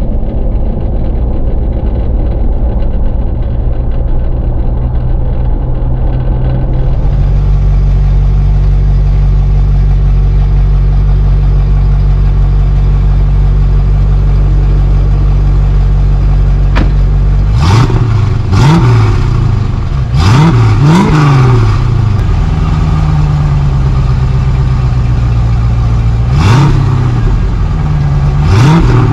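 Chevrolet Corvette C4's 5.7-litre V8 idling steadily. About two-thirds of the way in it is revved in about six short blips, each rising and dropping back to idle.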